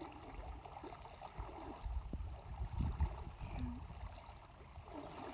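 River water flowing after a flood, a steady rushing, with irregular low rumbles on the microphone that are strongest about two to three seconds in.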